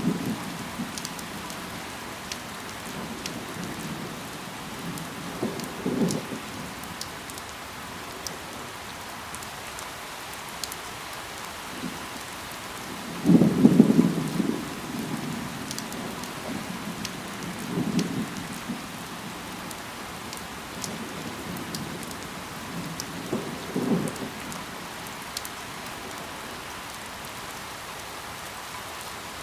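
Steady rain falling on leaves, with scattered sharp drops ticking through it. Four short low rumbles break in, the loudest about halfway through.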